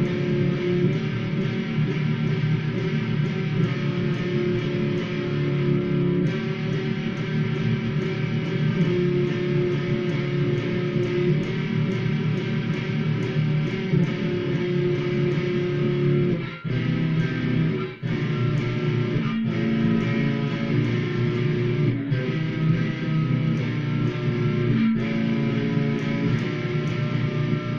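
Cort G100 electric guitar with two humbuckers playing a slow piece of held chords and single notes, recorded through a phone's microphone. The sound dips briefly twice around the middle, between phrases.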